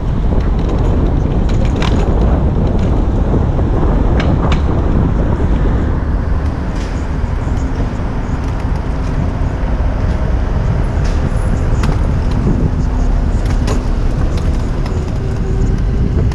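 Steady, loud city traffic noise heard from a moving bicycle, mostly a low rumble, with a vehicle's engine hum rising out of it about halfway through and a few light clicks.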